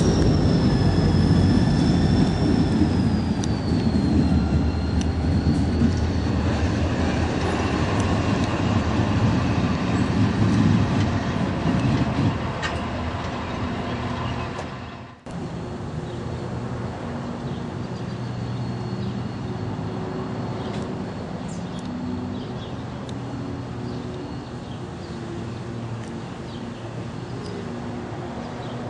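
A train rolling by with a loud rumble and the high, gliding squeal of wheel flanges on the rails. About halfway through it cuts off suddenly, giving way to a quieter, steadier train rumble with a faint low hum.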